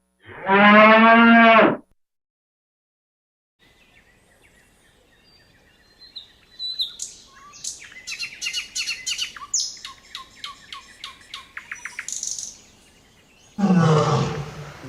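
A songbird singing: high chirps that turn into quick runs of sharp repeated notes for about six seconds. It is preceded by the tail of a cow's moo at the very start, and a deep animal roar begins near the end.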